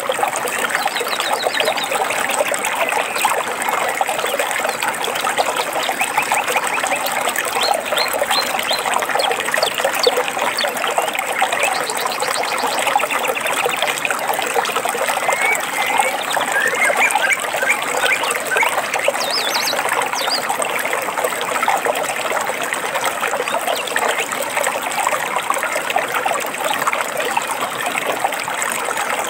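Running water of a stream, steady and even, with small birds chirping over it in short high trills now and then.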